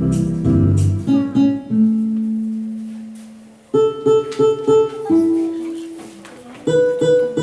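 Music on a plucked string instrument, guitar-like: single notes that start sharply and fade, a longer held note, then a quick run of repeated notes about four seconds in.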